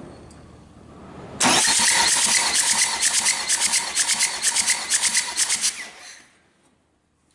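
Hyundai D4DA diesel engine turned over by its starter motor for a compression test, pulsing evenly several times a second as each cylinder comes up on compression. It starts suddenly about a second and a half in and stops after about four and a half seconds.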